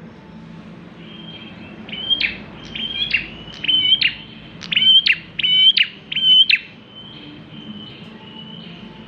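Prenjak klawu, a prinia, singing: a thin high note, then a run of about six loud, sharp, evenly repeated chirps, then back to the softer high note.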